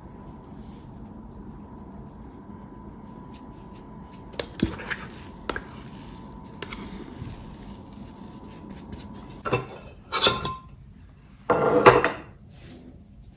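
Kitchen dishes and utensils knocking and clinking: a few light clicks, then several louder clatters near the end. A faint steady tone runs underneath and stops about two-thirds of the way through.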